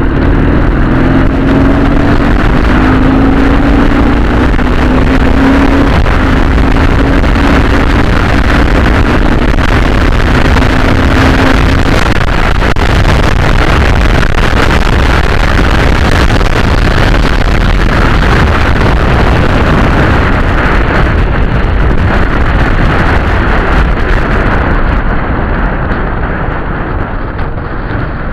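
Dnepr motorcycle's flat-twin engine running under way. Its note rises slowly over the first dozen seconds and is then buried in a dense, loud rush of noise. The sound eases off near the end.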